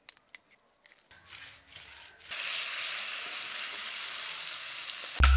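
Ground paste frying in hot oil in a metal kadai: a steady sizzle that starts sharply about two seconds in, after a few faint clicks. A sudden loud low boom near the end.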